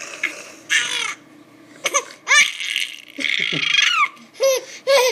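A small child laughing and squealing: breathy, gasping laughs broken by several short, high-pitched squeals, the last two in quick succession near the end.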